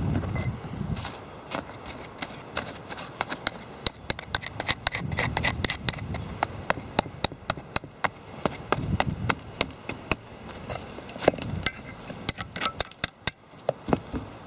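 Hand tools working a hard object: irregular sharp taps and knocks, several a second at times, with stretches of scraping.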